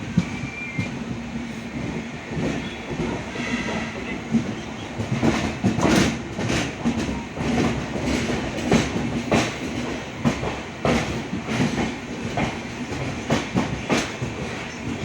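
Moving passenger train heard from on board: a steady rumble with the wheels clacking over rail joints, the clacks coming thicker and louder from about five seconds in.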